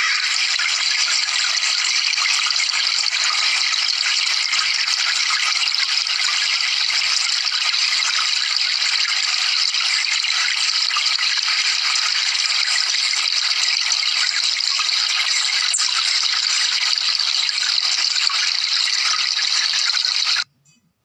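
A steady, even hiss that cuts off suddenly near the end.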